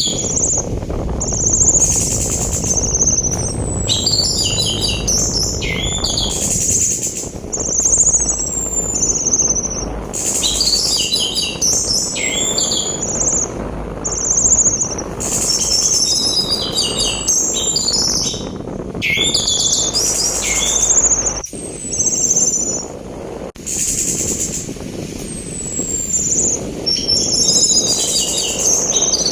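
Orange-headed thrush (anis merah) singing a run of varied phrases: quick stacked notes and falling whistles every second or two. Under the song is a steady rushing sea-wind noise, which briefly cuts out about two-thirds of the way through.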